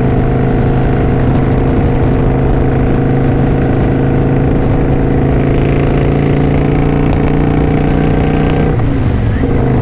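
Kawasaki Vulcan 900's V-twin engine running at a steady cruise under the rider. Near the end the engine note drops briefly, then picks up again, as with a throttle roll-off or gear change.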